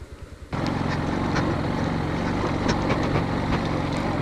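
Motorcycle engine running at low revs with a steady putter. About half a second in, the sound jumps suddenly to a louder engine-and-road noise with scattered clicks, as when riding.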